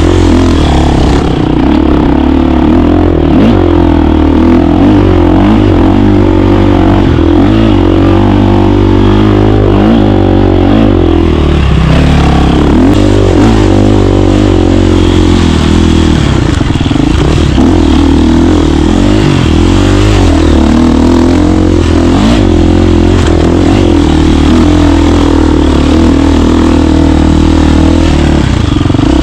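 KTM 350 dirt bike's single-cylinder four-stroke engine running hard while riding, its pitch rising and falling again and again with throttle and gear changes.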